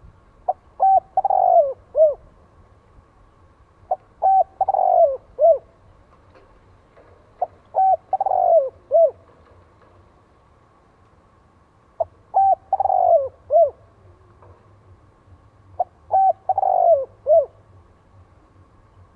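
Spotted dove cooing its song, five phrases a few seconds apart. Each phrase is a couple of short notes, a longer drawn-out note and a short closing note.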